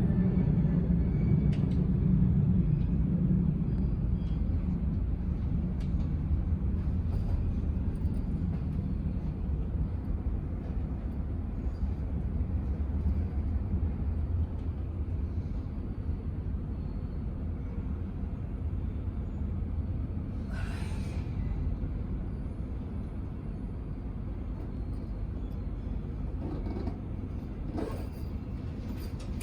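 Low rumble of a jet airliner's engines, slowly fading away. A few faint short knocks come about two-thirds of the way through and near the end.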